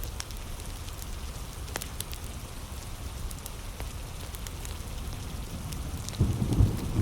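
Steady heavy rain with the sharp crackles of a wood fire scattered through it. Near the end a low rumble swells in.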